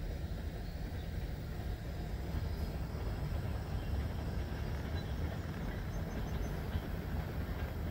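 Freight train of loaded hopper cars rolling past, a steady low rumble that grows a little louder about two seconds in.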